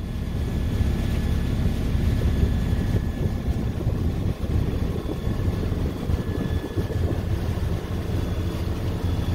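Sailboat's engine running steadily while the boat motors along under way, as a continuous low drone.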